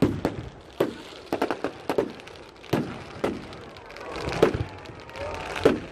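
Fireworks going off at a bonfire night display: about a dozen sharp bangs and pops at irregular intervals, some in quick pairs.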